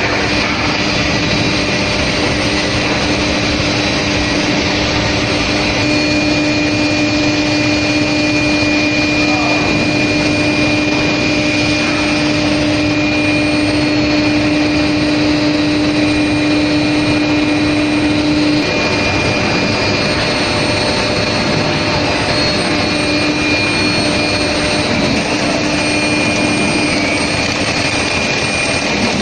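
Steel rail induction hardening and tempering line running: a loud, steady rushing machine noise with a steady hum and a high whine laid over it. The hum drops away about two-thirds of the way through, and the whine comes and goes.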